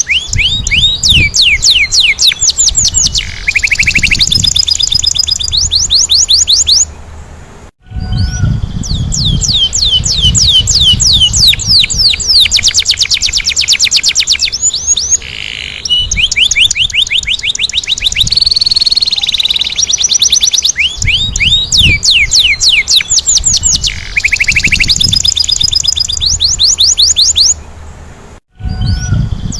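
Domestic canary singing, a long song of fast repeated trills and rolls broken by two short pauses, about 8 s in and near the end.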